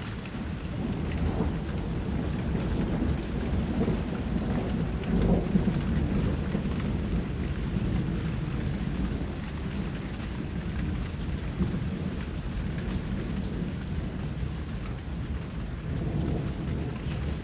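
Steady rain with low rumbles of distant thunder, swelling about five seconds in.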